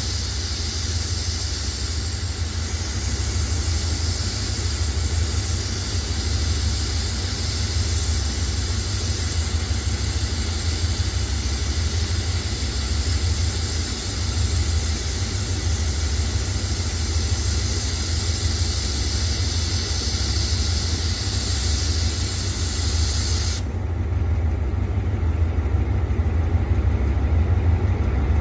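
Diesel train idling at a standstill: a steady low engine rumble with a loud hiss over it, which cuts off suddenly about four-fifths of the way through while the rumble runs on.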